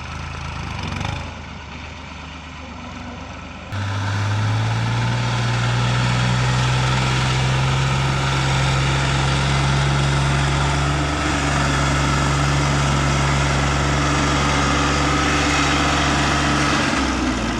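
Heavy diesel engine running: fairly quiet for the first few seconds, then suddenly much louder about four seconds in, rising slightly in pitch as it revs up and holding a steady high rev, easing off just before the end.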